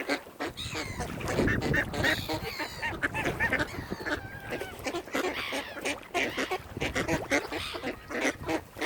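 A gathering of waterfowl calling, with many short calls overlapping one another throughout.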